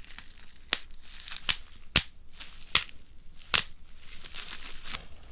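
Bubble wrap being squeezed by hand: sharp pops about every second, five loud ones and a fainter one near the end, with the plastic sheet crinkling between them.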